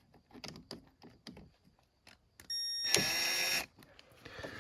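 A few faint clicks and knocks, then a short steady whine of a small electric motor, about a second long, that stops suddenly.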